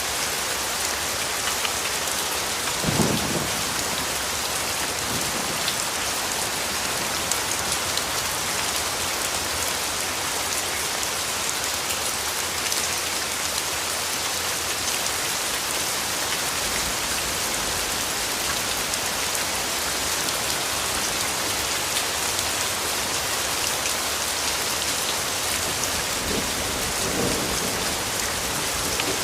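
Steady rainfall, a dense even hiss of raindrops. A brief low rumble of thunder comes about three seconds in, and a fainter one near the end.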